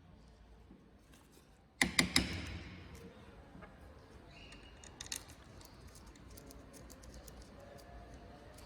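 Screws and small metal parts being handled and set down, clinking: a quick cluster of sharp metallic clicks about two seconds in, then a couple of lighter clicks about five seconds in.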